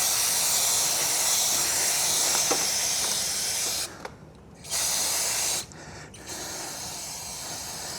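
Aerosol chain cleaner spraying onto a motorcycle chain: a long steady hiss that stops about four seconds in, then one shorter burst of about a second.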